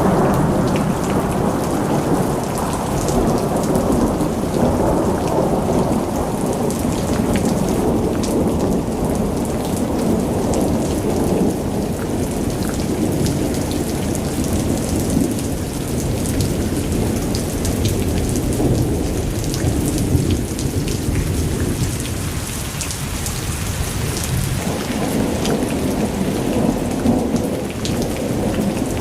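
Water rushing in a strong flow: a steady, loud noise weighted toward the low end, with scattered sharp spatters on top.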